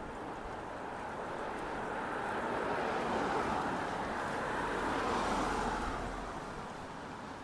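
A car driving past, its tyre and engine noise swelling to a peak about halfway through and then fading away.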